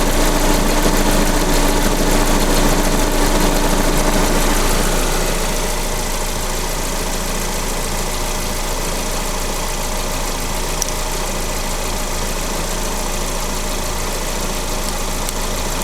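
Lada VAZ-21127 16-valve four-cylinder engine running steadily at idle. A steady hum drops out about five seconds in, and the running is a little quieter after that.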